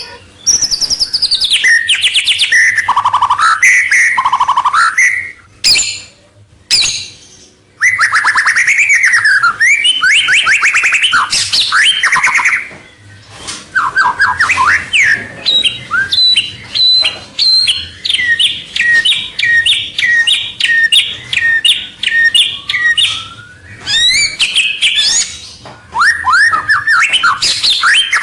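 White-rumped shama (murai batu) singing loud, varied whistled phrases and trills, with a short pause near the quarter mark and then a long run of quickly repeated notes lasting about nine seconds. It is a lure recording meant to draw rival males in.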